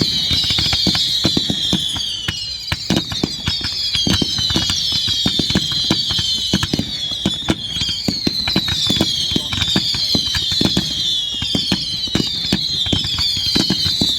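Fireworks display going off: a rapid, continuous string of bangs and crackles, with high-pitched whistles that fall in pitch, one after another, over the top.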